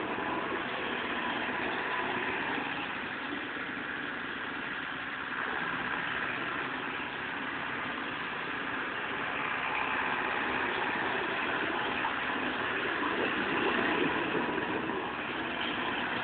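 Steyr 9094 tractor's diesel engine running as the tractor turns donuts, its loudness swelling and easing, strongest about ten to fourteen seconds in.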